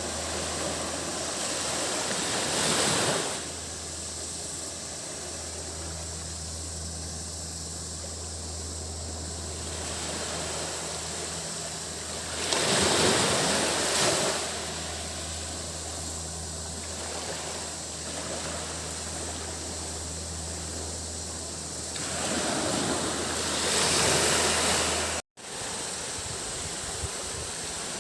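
Gentle sea waves breaking and washing up a sandy beach, swelling three times about ten seconds apart, over a steady high cicada drone and a low steady hum. The sound drops out for an instant near the end.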